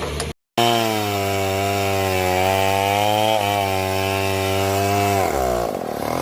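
Chainsaw engine running at a steady high pitch, starting abruptly about half a second in. About five seconds in, its pitch drops and wavers.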